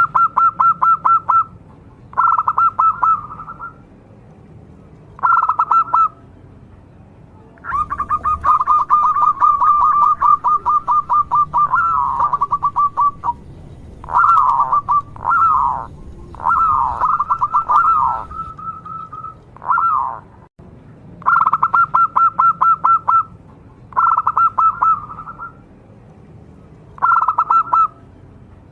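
Male zebra dove (perkutut) singing: repeated phrases of quick pulsed cooing notes with short pauses between, including one long run of several seconds near the middle.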